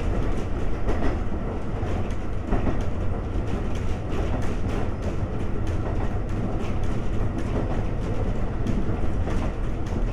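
Ex-Tokyu 7000 series electric railcar running along the line, heard from inside the car: a steady low rumble of wheels on rail with the clickety-clack of the wheels passing rail joints.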